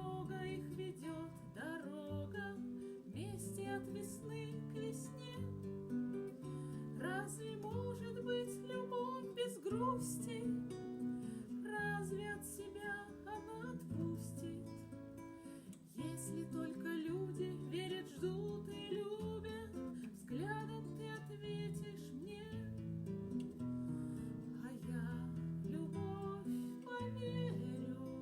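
Acoustic guitar music, with chords strummed and plucked steadily and a brief drop in level about sixteen seconds in.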